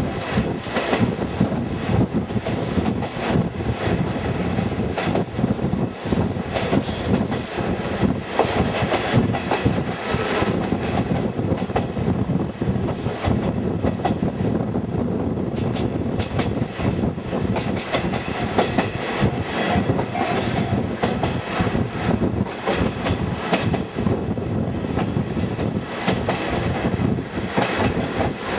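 KiHa 48 diesel railcar running at speed, heard from its open-windowed trolley car: continuous rail running noise with wheels clacking over the rail joints.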